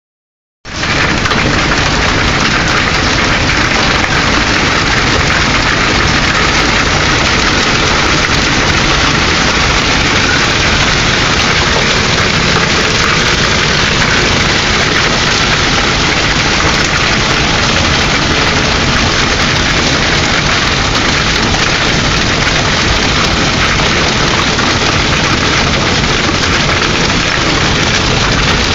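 Hail pelting down hard, a loud, dense, steady patter of hailstones and rain striking surfaces, starting abruptly about half a second in.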